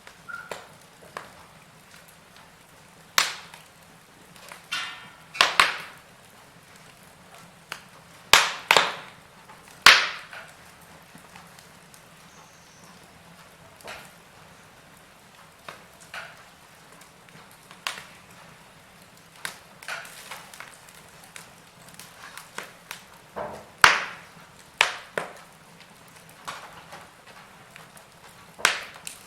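Wood fire in a fireplace crackling, with irregular sharp pops every second or two; the loudest pops come a few seconds in, around a third of the way through, and about four-fifths of the way through.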